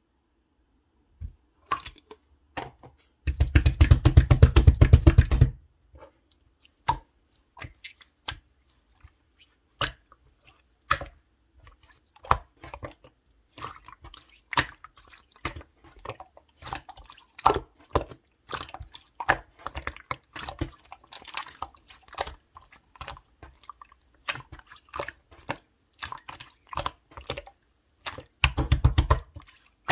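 Clear slime being squished and pressed by hand: wet, sticky clicks and pops at irregular intervals. About three seconds in, and again near the end, there is a couple of seconds of fast, dense crackling.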